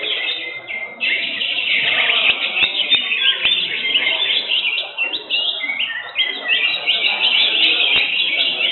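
Cucak hijau (green leafbirds) singing a dense, unbroken stream of quick high chirps and whistles.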